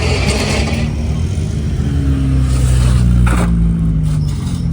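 Car engine running with a slight rise in revs about two seconds in, and a brief hiss a little after three seconds.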